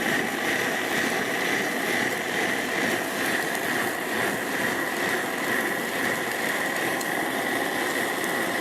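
Portable camping stove burner running with a steady hiss and a constant high whistle-like tone under the cooking pot.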